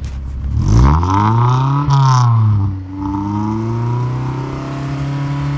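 Honda Civic EJ9's 1.4-litre four-cylinder engine, breathing through an aftermarket Magnaflow silencer, revved by an inexperienced hand. It blips up sharply and falls back twice in the first three seconds, then is held at a steady, raised speed.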